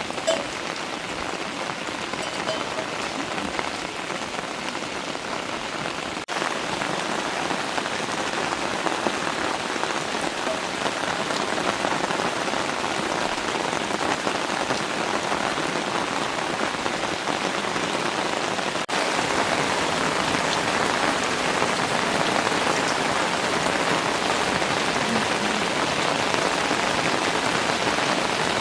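Heavy rain falling in a steady, dense hiss, a little louder in the second half, with two momentary dropouts.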